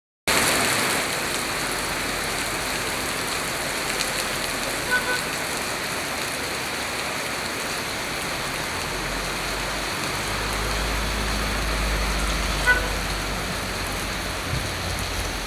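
Steady rain falling. A low rumble joins from about nine seconds in and fades near the end, and there are two short, faint pitched blips.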